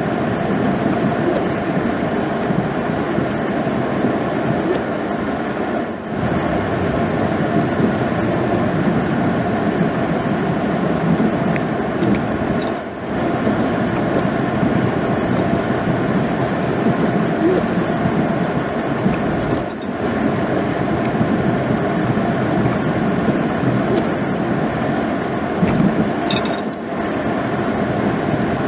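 Plow truck driving, a loud steady noisy drone that dips briefly about every six to seven seconds.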